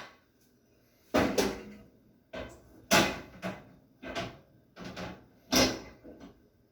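A run of about eight knocks and clatters over six seconds, the sound of a new Panasonic microwave's glass turntable dish, roller ring and door being handled and fitted.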